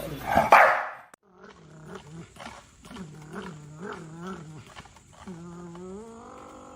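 A dog making long, wavering howl-like vocalisations: a run of short wobbling moans, then a longer held note that rises in pitch near the end. A loud noisy burst comes first, cut off about a second in.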